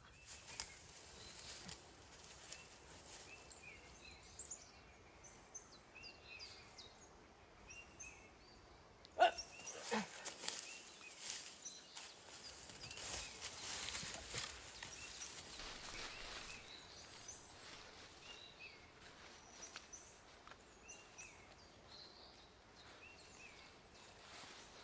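Faint outdoor ambience with small birds chirping repeatedly. About nine seconds in, a short, sudden louder sound cuts in.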